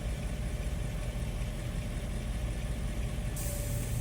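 Truck engine idling with a steady low rumble. About three and a half seconds in, a high, even hiss starts: air rushing from the air hose into the tire.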